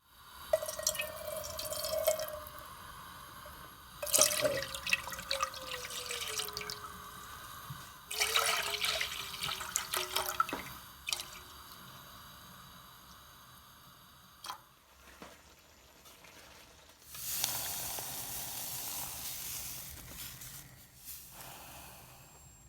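Water from a tap running into a sink in several spurts, with splashing and a few sharp knocks; at times the running water gives a clear tone that slides down.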